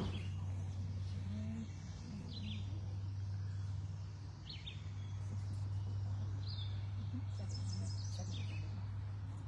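Wild birds chirping in the background, a handful of short high calls scattered through, including a quick run of notes near the end, over a steady low hum.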